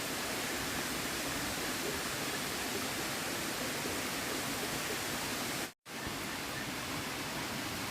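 Steady rushing of a river's flowing water, an even noise with no distinct events, broken off for an instant about three-quarters of the way through.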